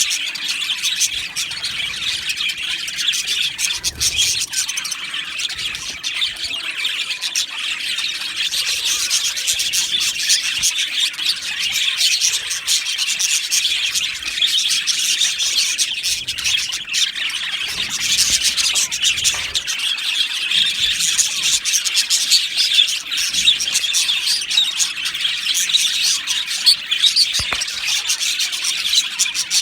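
A flock of budgerigars chattering and warbling all at once, a dense unbroken twittering.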